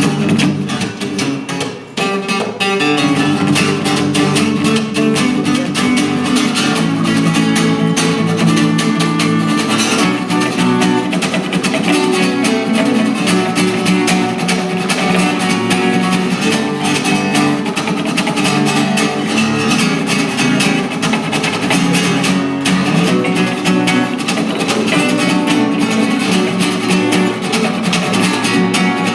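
A band playing an instrumental stretch of a song, with strummed guitar out front.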